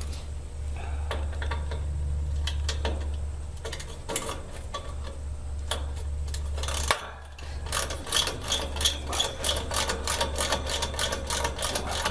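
Scattered metal clicks, then from about eight seconds in a fast, even run of ratchet clicks: a ratchet wrench being turned on the condensing unit's service valve. A steady low hum runs underneath.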